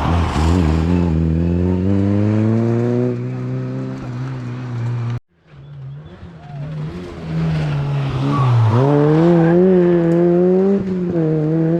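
Rally car engine accelerating hard, its pitch climbing steadily for a few seconds. After a sudden cut, a second rally car engine builds up again, with a quick dip and rise in pitch and a drop near the end, as it shifts and lifts off.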